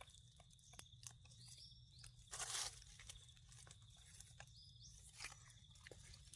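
Faint crunching and rustling of dry forest-floor litter, with scattered small clicks and one louder rustle about two and a half seconds in.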